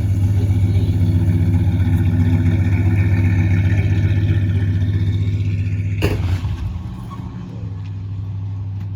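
A car engine running steadily at a constant pitch. About two-thirds of the way through there is a sharp knock, after which the engine sound becomes quieter.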